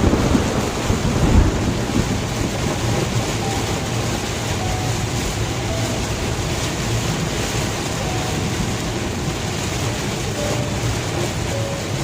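Heavy rain on a car driving along a highway, with steady rain and road noise and a low rumble in the first second and a half.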